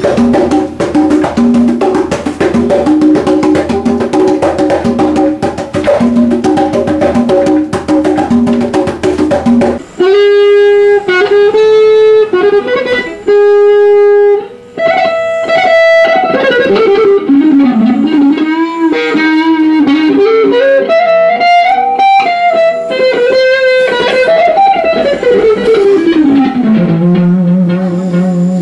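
Instruments being played in a music shop. For about the first ten seconds there is rhythmic Latin-style music with fast percussion. It then changes abruptly to a lead instrument, sounding like an electric guitar, playing sustained single notes with bends and long sliding pitch glides, one sliding steadily down near the end.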